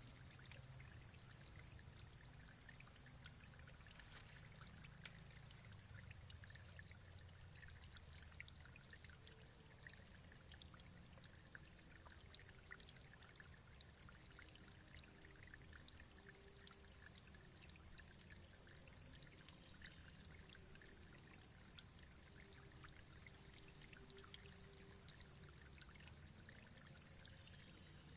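Faint, steady running water: a trickling stream with many small drips and splashes.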